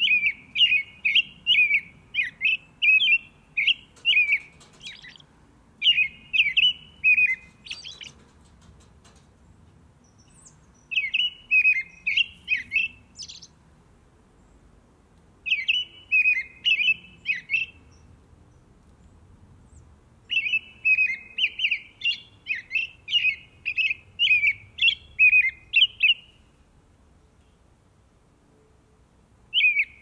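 A small bird chirping in bouts of quick, repeated high notes, about three a second, each bout lasting a few seconds with short pauses between.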